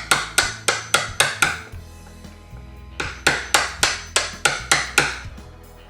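Hammer striking a chisel to cut into a wooden door jamb for a strike plate recess. There are two runs of quick, sharp blows, about four a second, with a pause of about a second in between.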